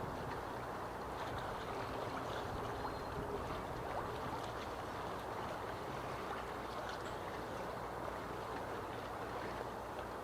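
Harbour waves lapping and splashing, a steady wash of water with small splashes.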